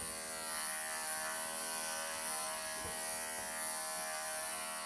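Electric pet clippers (Wahl Professional) running with a steady buzzing hum while shaving a Persian kitten's long fur on the inside of its leg.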